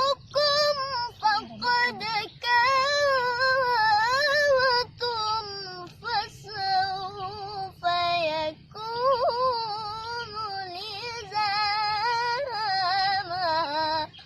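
A boy's voice reciting the Quran in melodic tilawah style, alone and unaccompanied. Phrases carry wavering, ornamented pitch runs with short breaks for breath. The voice breaks off sharply near the end.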